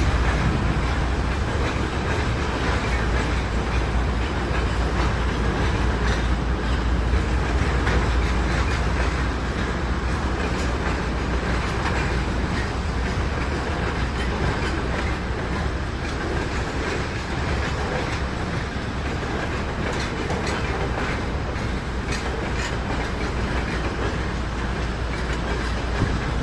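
Train running on rails, a steady rumble with wheels clicking over the rail joints, a little louder in the first third.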